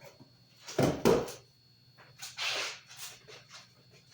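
Kitchen handling noises while preparing a salad: two short thuds about a second in, then a brief rustle and a few light taps.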